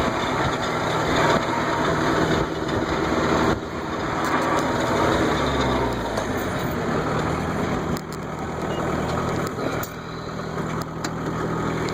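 Tractor engine running steadily, a low hum with a noisy rattle over it; about four to six seconds in the engine note sags briefly.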